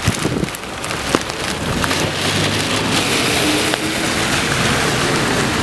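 Heavy rain falling in a thunderstorm, a steady hiss that grows louder about two seconds in.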